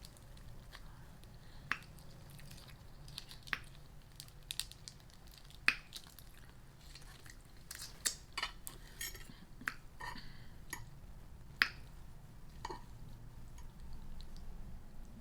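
A person eating lo mein noodles: soft chewing and wet squishy mouth sounds, with a dozen or so scattered sharp clicks and clinks of a utensil against a dish.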